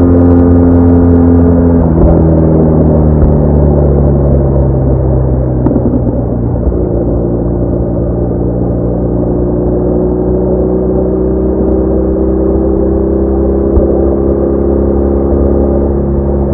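BMW R1200R boxer-twin motorcycle engine running under way, over a heavy low rumble. Its note drops in a few steps over the first several seconds as the bike slows, then climbs slowly and steadily as it picks up speed again.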